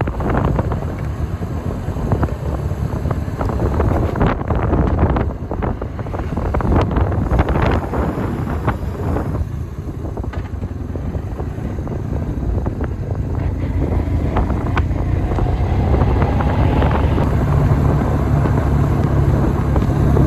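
BMW motorcycle engine running while riding, buffeted by heavy wind noise on the microphone. A steady engine hum comes back more clearly near the end.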